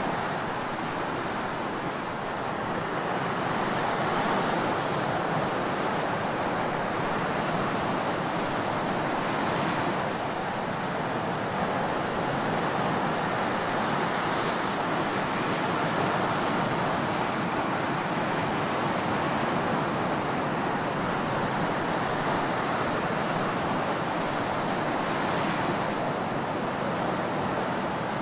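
Ocean surf washing on a tropical beach: a continuous rushing wash of breaking waves that swells and eases slightly without pause.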